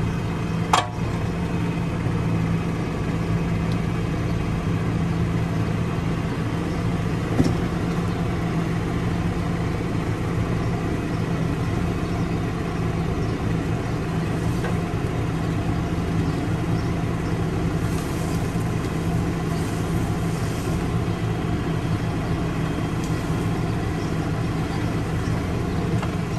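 Tractor diesel engine running steadily at a constant speed, with two sharp clicks, about a second in and again around seven seconds in.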